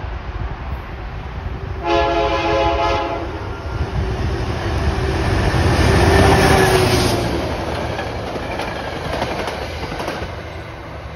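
Diesel locomotive passing close by at the head of a Metro-North push-pull train: one horn blast of about a second, then the engine's rumble peaks as it goes by, followed by the steady noise of the coaches' wheels on the rails.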